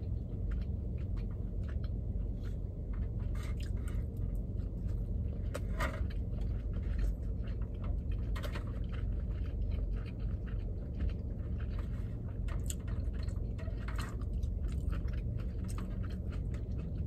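Close-miked chewing of a mouthful of tuna nigiri: soft wet smacks and clicks of the mouth, coming irregularly many times, over a steady low hum.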